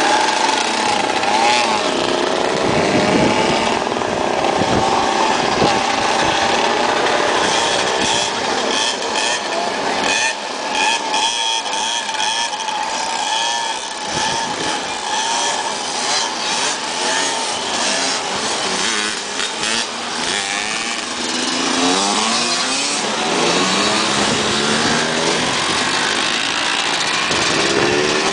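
Vintage motorcycles of mixed makes and ages riding past one after another at parade pace, several engines running at once, their pitch rising and falling as they go by.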